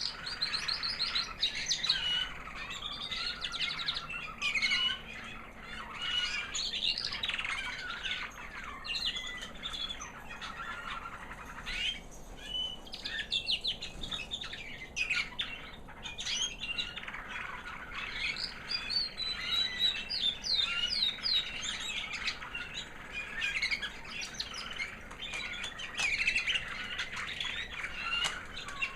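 American Singer canary hen singing a high, sweet song: a long run of rapid trills and chirps with a couple of short pauses partway through.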